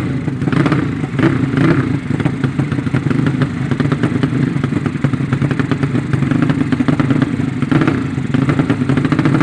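Racing underbone motorcycle engine running steadily with rapid, even firing pulses, with a few brief rises in revs near the start and one near the end.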